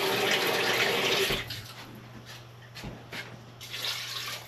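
Warm water being poured into a pressure cooker holding pig trotters. It is a steady rush that stops about a second in, followed by a few light knocks.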